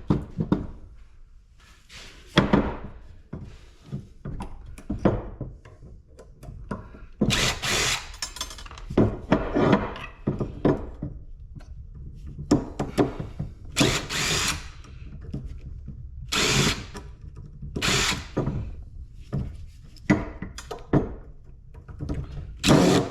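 Handheld power drill run in short bursts, about a dozen of them, with thunks and knocks of metal parts between, while scrap is taken apart.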